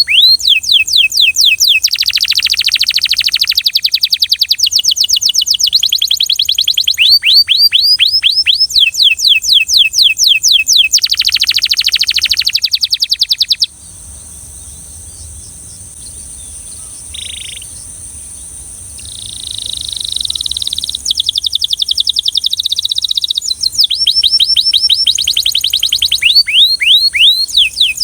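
Belgian canary singing: tours of fast, rapidly repeated notes, each run changing to a new note type every second or two. Its song breaks off about halfway for a few seconds, then returns softer before building back to full volume.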